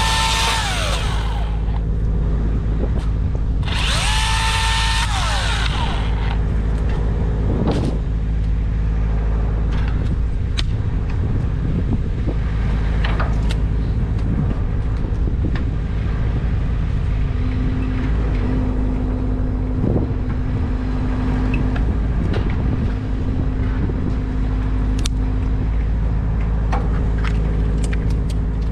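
A steady engine hum throughout. Near the start and again about four seconds in, a power saw's motor briefly whines and winds down, falling in pitch. Scattered knocks follow.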